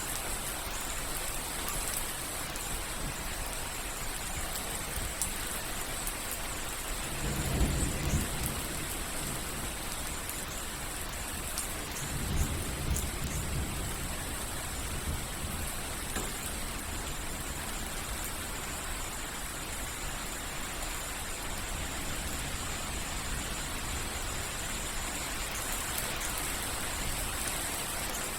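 Steady soft rain falling and dripping, a constant hiss with scattered drop ticks. Two brief low rumbles rise through it, one about seven seconds in and another about twelve seconds in.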